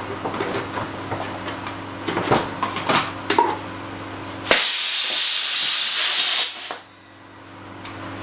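A few knocks and clicks, then a loud hiss of escaping air or spray that starts abruptly, holds steady for about two seconds and stops sharply.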